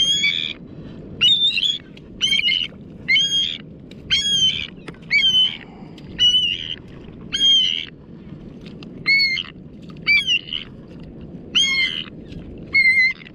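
A bird caught on a fishing hook and line calling over and over, about one high squawk a second, as it struggles against being held.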